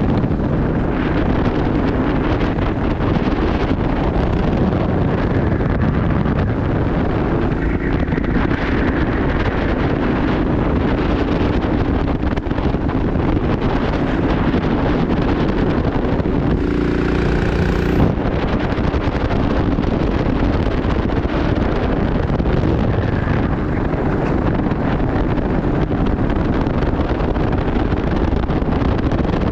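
Go-kart engine running hard with wind buffeting the onboard microphone, a steady loud noise through a racing lap.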